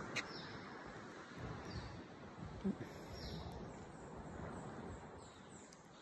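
Faint bird chirps in tree canopy: short, high, falling notes repeating every second or so, over a soft, steady hiss.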